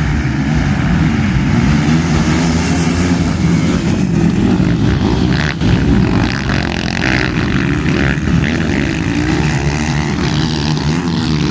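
Motocross dirt bike engines running and revving, the pitch rising and falling.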